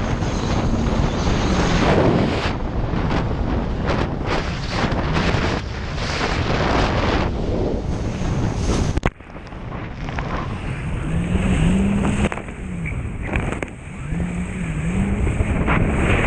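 Jet ski engine running under way, its pitch rising and falling with the throttle, with wind buffeting the microphone and water rushing past. The sound drops sharply and changes character about nine seconds in.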